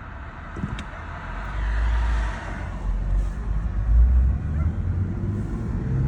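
BMW 328i wagon's 3.0-litre inline-six accelerating, heard from inside the cabin with the windows down, with a low rumble of wind and road noise that grows louder as speed builds.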